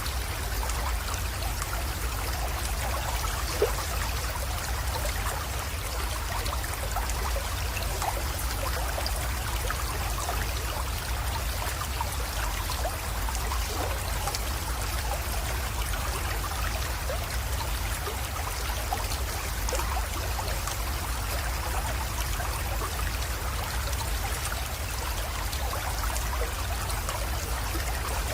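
Small creek water trickling and splashing steadily into a pond, with many tiny splashes over a steady low rumble.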